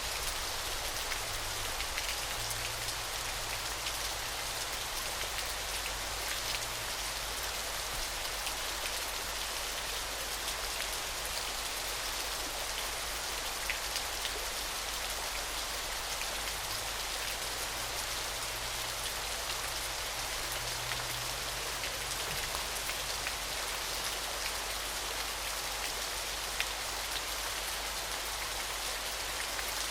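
Waterfall: a steady rush of falling water with many small splashes and drips throughout.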